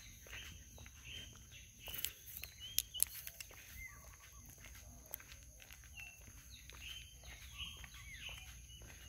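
Faint birds chirping: short rising and falling calls scattered throughout, over a steady high-pitched background drone. There are a few sharp clicks about two to three seconds in.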